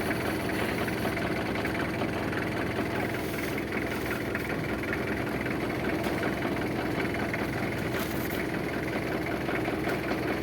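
A vehicle engine idling steadily, an even running sound that does not rise or fall.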